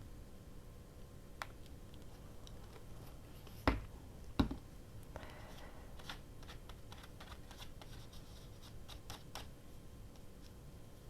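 Hands pressing a glued paper cut-out down onto a journal page: light paper clicks and crinkles, with two sharp knocks a little under a second apart near the middle.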